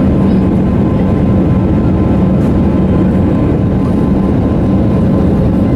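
Steady drone of an airliner's engines and rushing air heard inside the passenger cabin, with a constant low hum.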